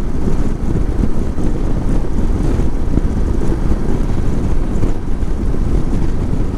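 Motorcycle riding at a steady speed: engine and road rumble mixed with wind buffeting on the microphone.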